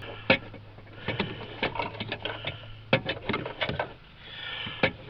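Irregular clicks and knocks of hands working an LED headlight bulb and its retainer in a tight headlight housing, some in quick runs, over a steady low hum.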